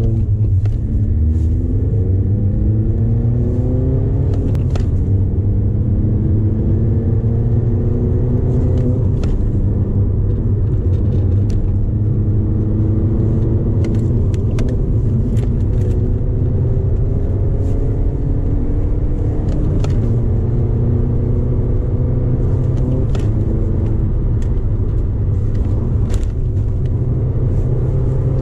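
Mini R56 engine with a decatted exhaust, heard from inside the cabin, pulling through the gears: its pitch climbs in each gear and drops back at each shift, over a steady low rumble. Scattered sharp clicks sound throughout.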